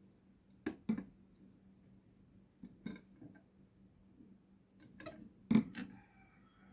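Handling clicks and knocks from a cordless drill and its packaging being unboxed: about six short, sharp taps, the loudest about five and a half seconds in.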